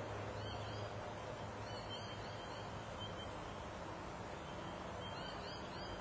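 Birds chirping: several groups of short, high, arching chirps over a steady background hiss.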